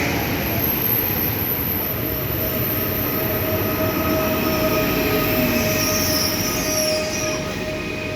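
Electric multiple unit (a 22WE) rolling along the platform, with rumbling wheels and a steady high-pitched squeal of wheels on rail. The squeal fades near the end.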